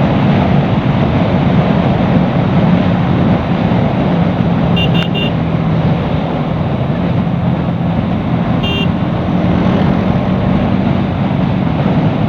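Bajaj Pulsar NS200's single-cylinder engine running steadily at cruising speed, with heavy wind rush over the rider's microphone. Short horn beeps sound about five seconds in and again near nine seconds.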